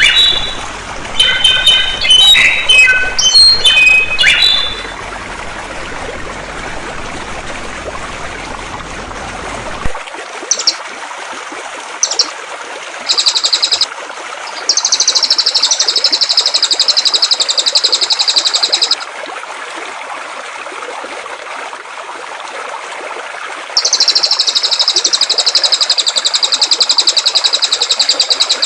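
Songbirds singing over steadily flowing water. For the first few seconds a bird gives loud, clear whistled notes. Then, over the water, another bird gives high, rapid trilled phrases: short ones at first, then long ones lasting several seconds each.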